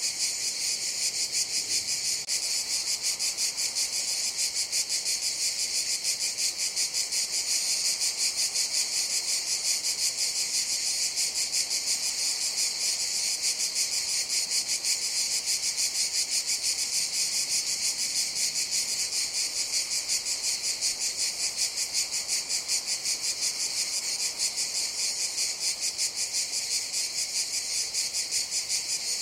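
Cicadas buzzing in a steady, dense high-pitched chorus with a fast, even pulsing throb.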